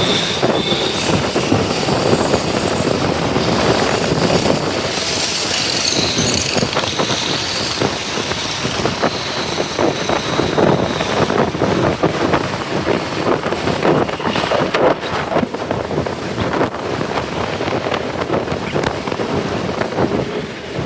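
Motorcycle running in traffic, heard from its pillion seat, with wind buffeting the microphone.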